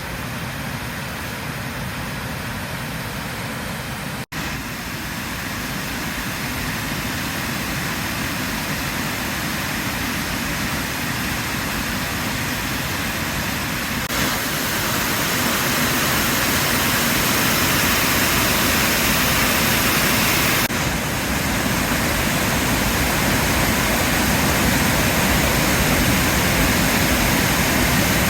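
Floodwater rushing steadily over a dam and down a swollen river, a loud, even rush of water. It drops out for an instant about four seconds in and gets louder about halfway through.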